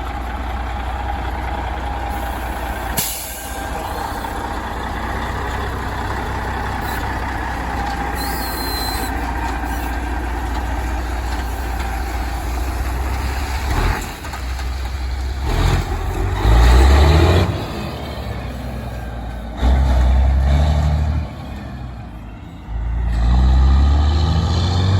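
Heavy truck diesel engines running, with short air-brake hisses early on, then three louder, deeper engine surges in the second half as trucks rev or pull away.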